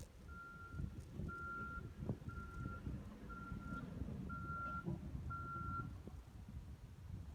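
Vehicle reversing alarm beeping steadily, about once a second with a single high tone, over a low engine rumble; it stops about six seconds in.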